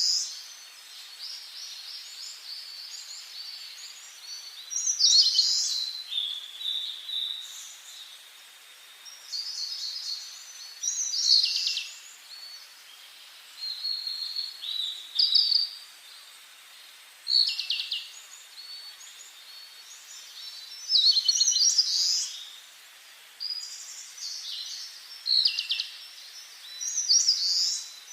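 Songbirds singing: short, high, trilling song phrases follow one another every second or few, over a faint steady hiss.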